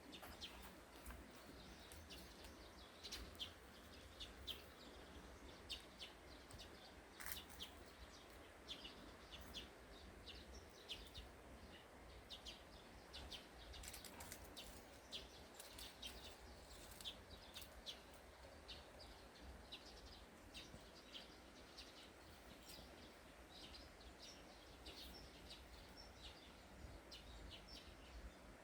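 Small birds chirping faintly and often, short high chirps scattered throughout, over a low steady outdoor background noise.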